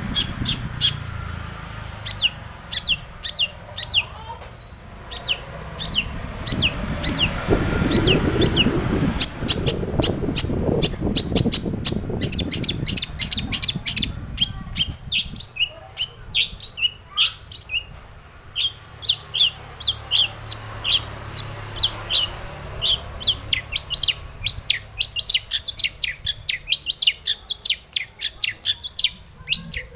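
Long-tailed shrike (cendet) singing: a string of short, sharp, downward-sliding notes, broken by fast rattling runs about a third of the way in and again toward the end. A low rumble rises under the song in the first half.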